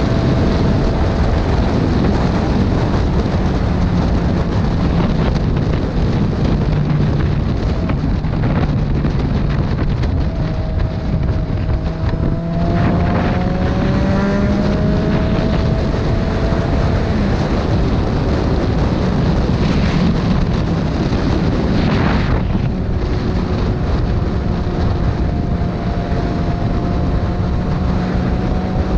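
Motorcycle engine running under way on the road, its pitch drifting up and down with speed, with heavy wind buffeting the microphone. The engine note breaks and climbs again about twelve seconds in and again a little past twenty seconds.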